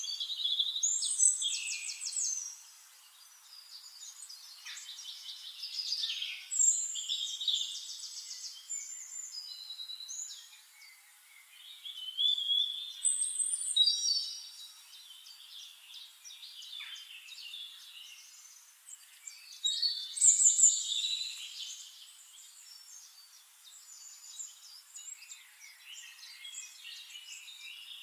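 Birds chirping and trilling, in repeated spells of short high calls and fast ticking runs, over a steady outdoor background hiss.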